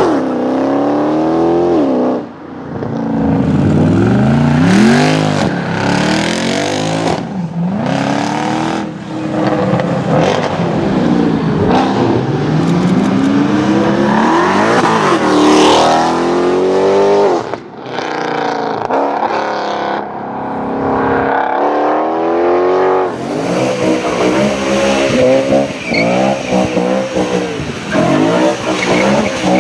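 High-performance car engines revving and accelerating hard, the pitch climbing and dropping again and again as the revs rise and the gears change.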